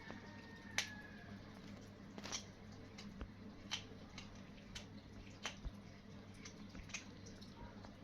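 Kittens eating, with irregular small wet clicks and smacks from their mouths at the food, about one a second, over a steady low hum.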